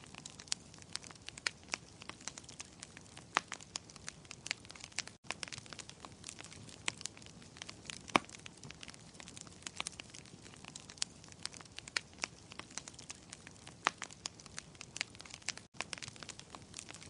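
Wood fire crackling in a fireplace: irregular sharp pops and snaps, many a second, over a soft steady hiss. The sound cuts out for an instant twice, about five seconds in and near the end.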